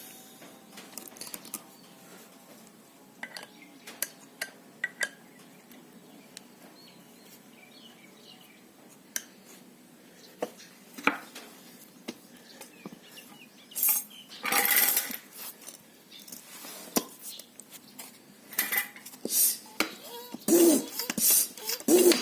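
Metal clinks and clicks from the pump and tank fittings, then from about two thirds in, repeated strokes of a high-pressure hand pump, each with a rush of air, as it fills a steel PCP air-gun tank.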